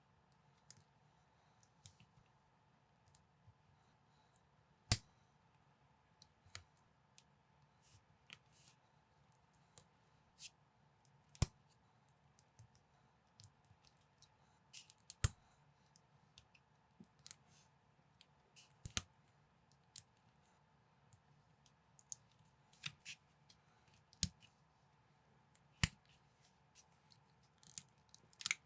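Lego-compatible plastic building bricks being handled and pressed together, irregular sharp clicks and snaps every second or so, a few of them louder, over a faint steady hum.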